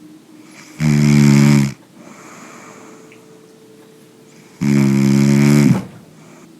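A sleeper snoring loudly: two long, rattling snores about four seconds apart, the first a little under a second in and the second near the end, each lasting about a second.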